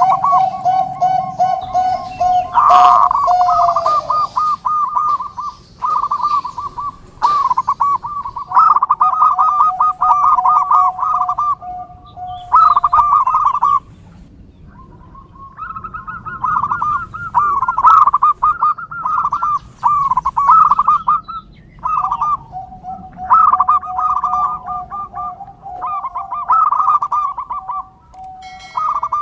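Zebra doves (perkutut) cooing: rapid runs of rippling notes, in phrases of a few seconds with short pauses, often at two pitches at once.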